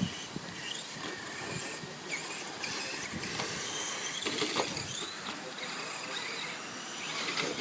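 Electric motor of a Volcano EPX radio-controlled truck whining as it is driven around a dirt track, its pitch rising and falling with the throttle.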